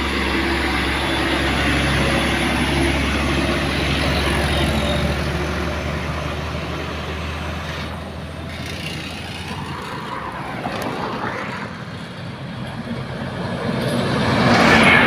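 Heavy diesel truck engine running under load on a steep climb, a steady low drone that drops away about ten seconds in. Another vehicle's noise builds near the end.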